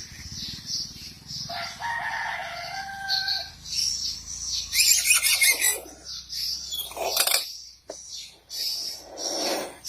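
A bird crowing like a rooster, one drawn-out pitched crow, followed by several loud, noisy calls, over a steady high insect chirring.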